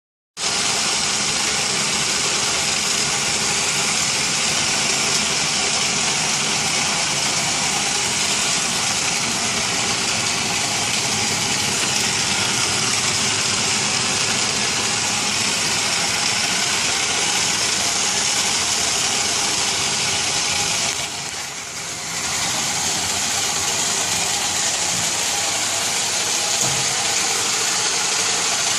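Roomba Discovery 4210 robotic vacuum running with a steady whirring noise, which dips briefly for about a second around 21 seconds in.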